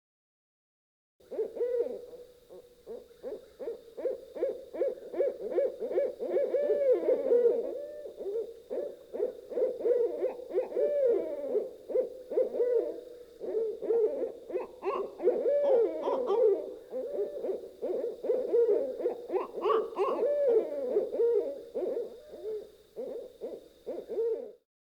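Birds giving low hooting calls, many notes overlapping in quick succession, over a faint steady high-pitched tone.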